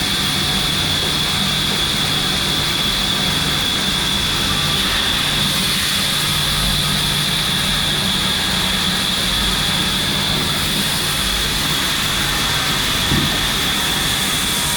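Steady machine noise: a continuous rushing hum with a high whine, and a single short knock about 13 seconds in.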